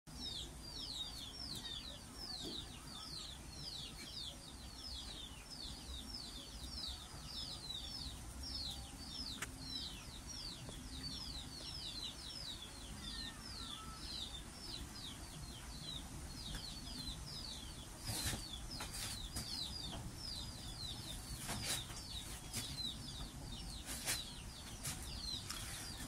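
Birds chirping: a rapid, unbroken run of short, high, falling chirps, about three a second. A few sharp clicks come in over the last eight seconds.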